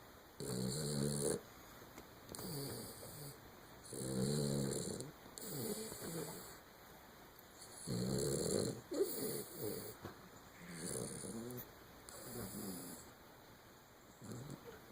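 A Schnoodle dog snoring while asleep: a steady run of rough snores, each about a second long, coming every second or two.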